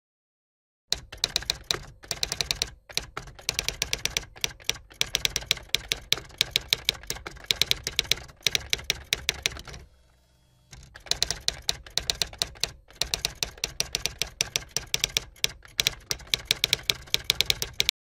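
Typewriter typing sound effect: a fast run of key clicks that starts about a second in, stops briefly about ten seconds in, then carries on.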